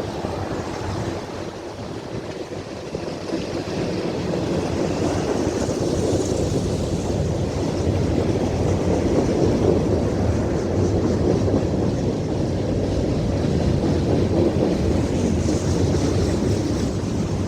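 Freight train rolling past, a steady rumble of wheels on rail that builds over the first few seconds and then holds.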